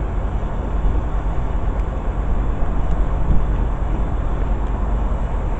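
Steady low rumble of a departing diesel-hauled passenger train: a Class 67 diesel-electric locomotive pulling its coaches out, with the Class 82 driving van trailer at the rear passing.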